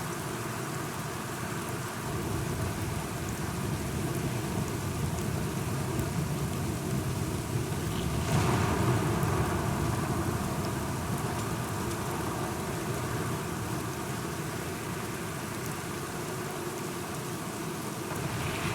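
Steady rain falling, with a low roll of thunder that builds and peaks about halfway through, then slowly fades.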